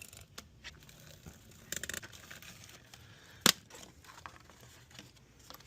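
Small handling noises of plastic parts being worked by hand, with a short scrape about two seconds in and one sharp click about three and a half seconds in.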